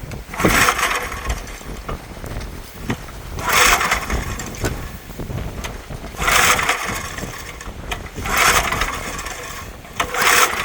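Old Gravely walk-behind tractor's small engine being cranked over in five short pulls a few seconds apart, turning over without catching: it won't start.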